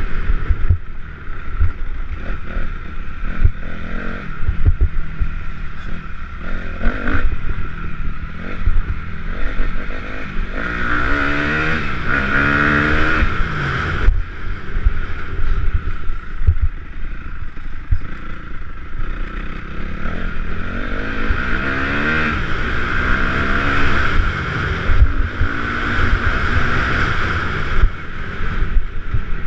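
Motocross bikes racing, their engines revving up and down as they pass, with a louder run of revving about halfway through and again near the end. A low rumble and crackle of wind buffets the microphone.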